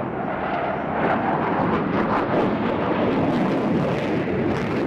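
Jet noise from RAF Tornado GR4s, whose two RB199 turbofans each give a steady, loud rushing roar with no clear rise or fall.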